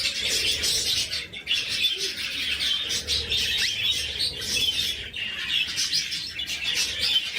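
Many birds chirping at once: a dense, unbroken chatter of short calls that cuts off suddenly just after the end.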